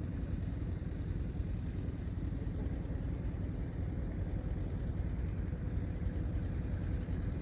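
Strong wind buffeting the camera microphone: a steady low rumble with no break.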